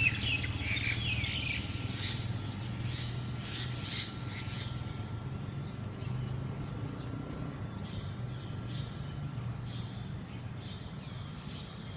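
Oriental magpie-robins making sharp, quick chirping calls during a fight between rival pairs. The calls are loudest in the first two seconds, then turn fainter and scattered over a steady low hum.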